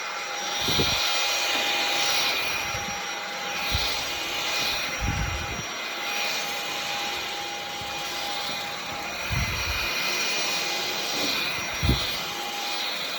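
Roborock H7 cordless stick vacuum running with its mop add-on: a steady motor whine over rushing air that swells and fades as it is pushed back and forth, with a few low bumps.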